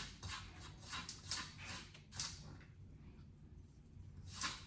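Hands rubbing seasoning into raw fish: a string of short, soft, irregular rubbing and rustling strokes, one stronger about a second in and another near the end.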